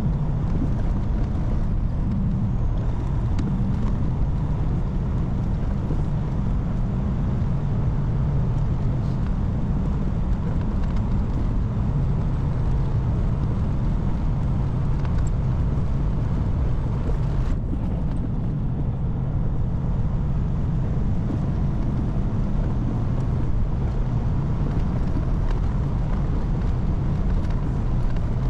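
Semi truck's diesel engine running steadily with a continuous low rumble.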